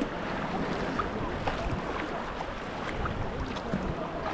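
Sea kayak paddling on open water: the paddle blades dip and water splashes and drips in small scattered spatters, over a steady wash of sea noise.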